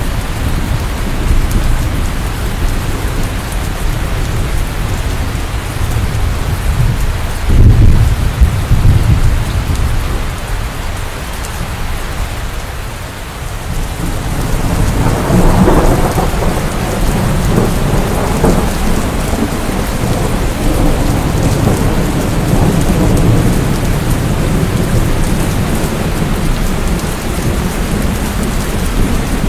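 Steady rain with thunder: a sudden low clap about a quarter of the way in, then a long rolling rumble that builds from about halfway and carries on under the rain.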